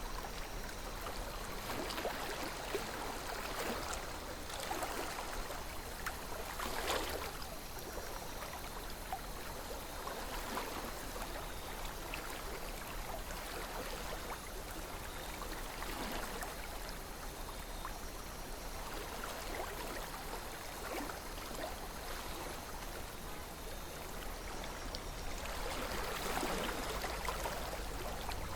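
River water flowing and gurgling steadily, with small swells and ripples coming and going.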